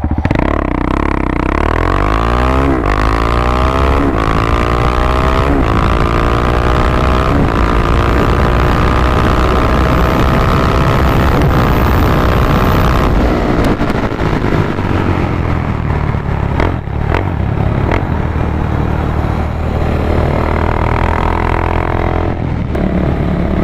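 KTM Duke 690's single-cylinder engine, breathing through a full Competition Werkes aftermarket exhaust, accelerating at full throttle through the gears: the revs climb and drop back at each of several quick upshifts, then pull long and high until about 13 seconds in, when the throttle closes and the revs fall away. The engine picks up again near the end.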